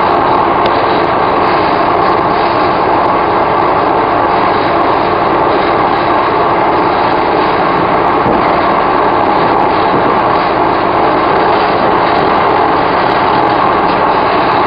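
Steady running noise of an electric commuter train, heard inside the carriage.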